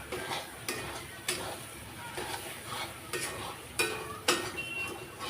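A spoon stirring chicken in spiced masala in a kadhai, scraping and knocking against the pan at irregular strokes so it does not stick to the bottom, over a faint sizzle of frying. The loudest clinks come about four seconds in.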